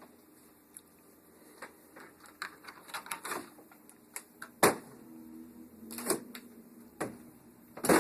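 Irregular clicks and knocks of household items being handled and moved, sparse at first, then busier, with sharper knocks about four and a half seconds in, around six seconds and at the very end.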